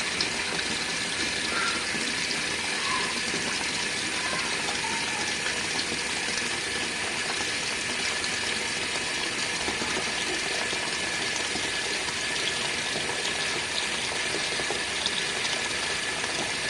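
Warm tap water running steadily into an RV washing machine's tub, filling it for the final rinse.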